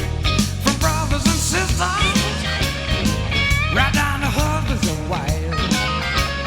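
Blues band playing an instrumental break: a lead guitar bends and shakes its notes over bass and a steady drum beat.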